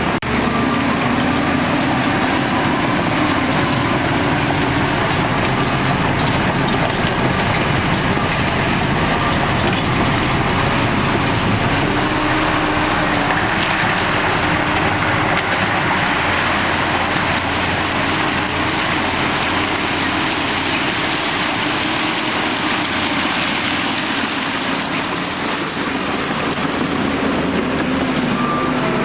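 Diesel engine of a crawler bulldozer working rock fill, running steadily under load with its pitch rising and falling, over a continuous clatter and grind of tracks and rock.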